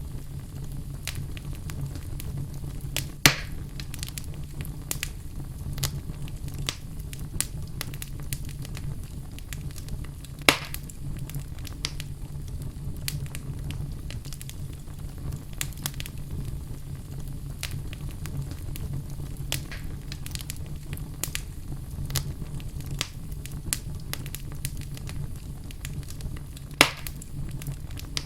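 Wood fire in a fireplace crackling, with many small snaps and three louder pops, over a steady low rumble.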